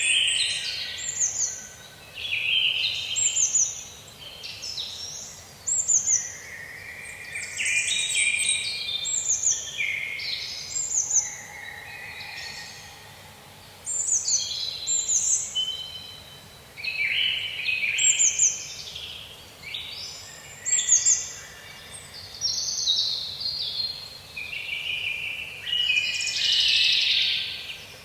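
Several songbirds singing in a forest, their phrases overlapping and following one another every second or two, many made of quick falling notes and trills.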